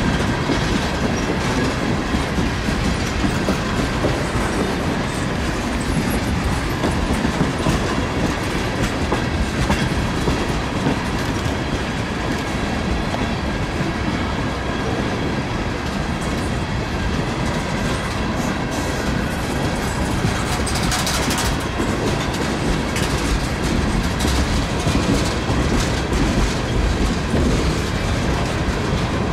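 Cars of a Norfolk Southern mixed freight train rolling past steadily, steel wheels clicking over the rail joints above a continuous rumble.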